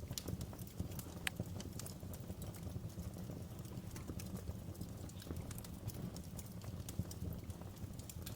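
Wood fire burning in a fireplace, with irregular sharp crackles and pops over a steady low rumble of the flames; a louder pop about a second in and another about seven seconds in.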